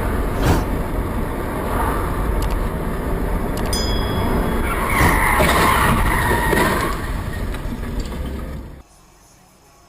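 Dash-cam audio of a car on the road: steady road and engine noise, with a sharp knock about half a second in and a louder, higher-pitched skidding noise from about five to seven seconds in. The sound cuts off suddenly about nine seconds in.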